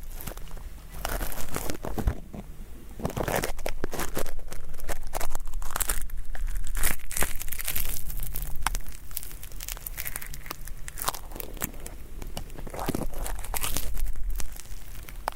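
Ear pick scratching and crackling at stubborn, stuck earwax close to the ear, in irregular scraping strokes full of sharp little crackles.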